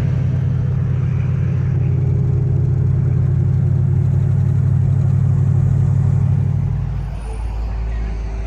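A car engine running steadily close by, then dropping off to a quieter, lower running sound about seven seconds in.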